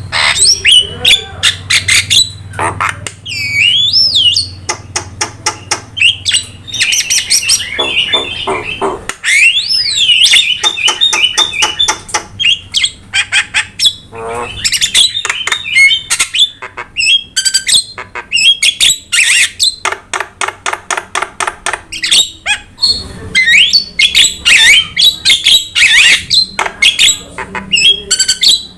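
Jalak (Indonesian starling) song in a continuous stream: rapid runs of sharp clicking chatter, harsh squawks and gliding whistles, the kind of recording played to prompt and tutor captive jalak. A low hum sits under the first seven seconds or so.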